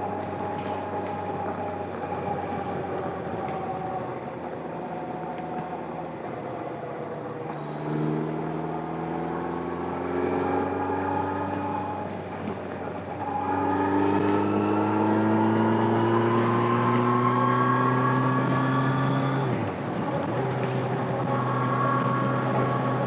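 Stock 2025 Kawasaki Z900's inline-four engine and exhaust heard onboard at highway speed: holding a steady pitch at first, then pulling hard with the pitch climbing, broken by upshifts about 8, 13 and 20 seconds in. It gets louder during the long pull in the second half.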